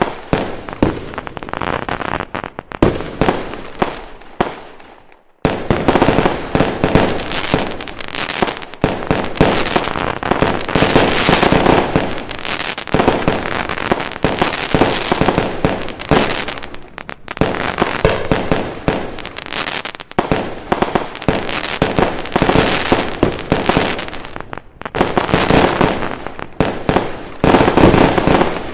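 Fireworks and firecrackers going off in dense, rapid volleys of crackling bangs, with a brief pause about five seconds in before the barrage resumes.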